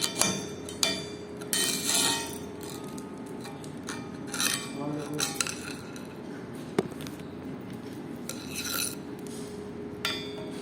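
Light metallic clinks and scrapes from stainless steel pieces being handled, several short ones with gaps between them, over a faint steady hum.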